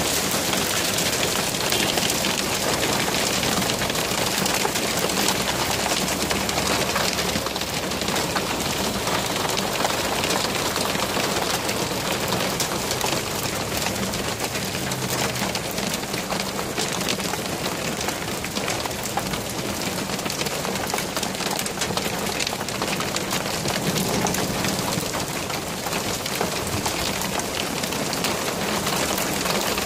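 Hail and rain pelting down hard: a dense, steady hiss full of sharp ticks of hailstones striking.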